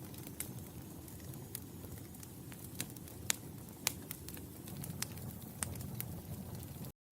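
Wood fire crackling in a fireplace: a steady low rumble of burning with scattered sharp snaps, two louder ones near the middle. The sound drops out completely for an instant just before the end.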